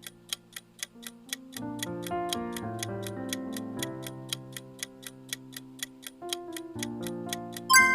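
A clock-ticking countdown sound effect, about four ticks a second, over soft piano background music, timing the pause for answering a quiz question. A bright ringing chime sounds near the end, the loudest moment.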